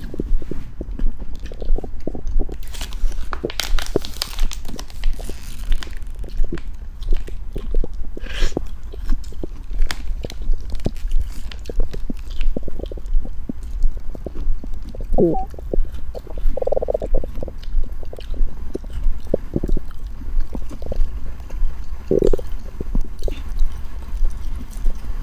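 Scattered wet gurgles and soft clicks, close to the microphone, over a steady low hum; a few louder gurgles come about midway and again near the end, one sliding in pitch.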